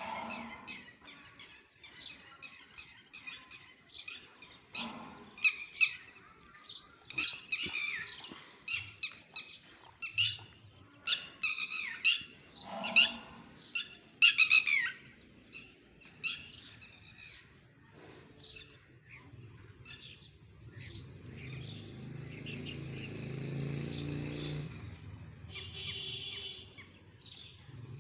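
Birds calling: a run of chirps and squawks, many of them quick downward-sliding calls, thickest and loudest in the first half. Near the end a low steady rumble rises for a few seconds and fades.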